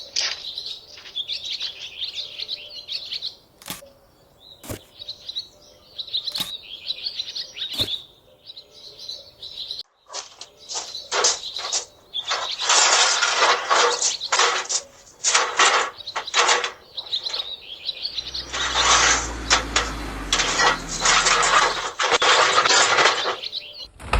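Small birds chirping and singing. About ten seconds in, a loud crackling hiss with many sharp pops takes over and drowns them out.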